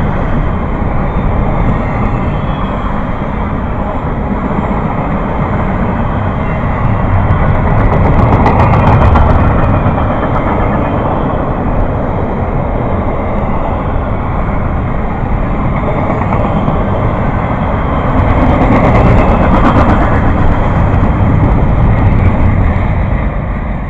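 A train rolling past close by: a steady, loud rumble and rattle of wheels on the rails that swells twice.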